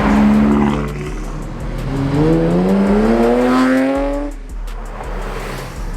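A car engine revving: a held note at first, then the pitch climbs steadily for about two seconds before cutting off abruptly a little past the middle.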